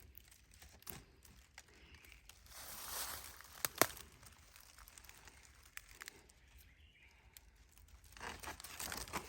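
Rustling and crinkling of dry forest foliage with scattered short snaps as wild pak wan shoots are picked, one sharper snap a little before four seconds in.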